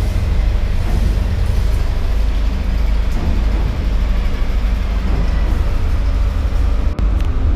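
Steady low rumble and running noise of a moving sleeper train, heard inside its toilet compartment, with a brief drop in loudness about seven seconds in.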